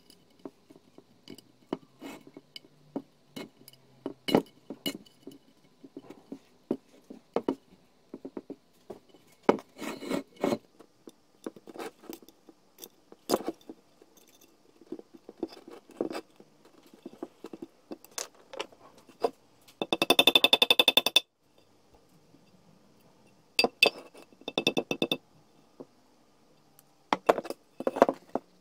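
Metal parts and hand tools knocking, clinking and scraping during work on a rusty vintage hand-crank grinder. About two-thirds of the way in comes a quick rattling run of rapid even clicks lasting a second or so, and a shorter run follows a few seconds later.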